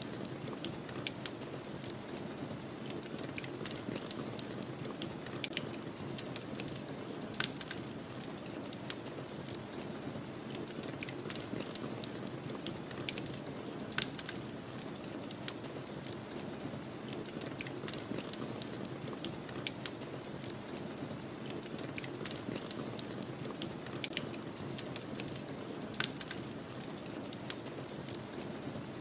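Wood fire crackling, with irregular sharp pops and snaps, over a steady low whoosh of snowstorm wind.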